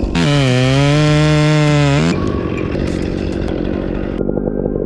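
Two-stroke chainsaw held at high revs for about two seconds, its pitch dipping and then climbing back, before dropping to a lower, rougher, rapidly pulsing run for the rest.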